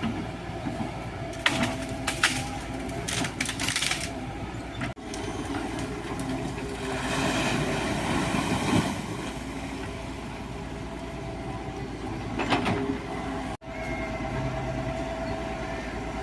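Excavator's diesel engine running steadily, with its bucket scraping and clattering against gravel and stones at intervals, and a longer rush of gravel in the middle.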